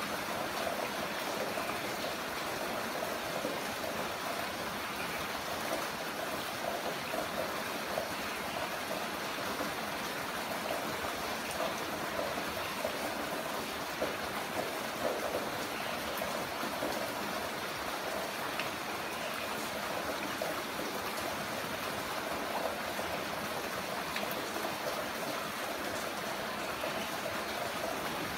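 Heavy rain falling steadily: a dense, even wash of water noise with scattered faint drop ticks.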